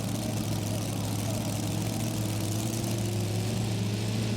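Vehicle engine idling over a steady low hum, its pitch creeping slowly upward.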